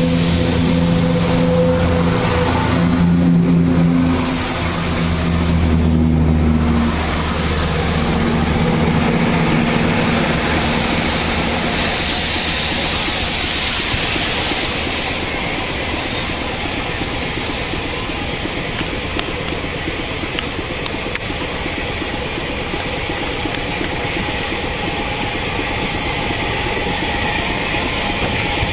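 A railway locomotive and its train running. A steady low engine drone fills the first several seconds, then gives way to a broad hiss.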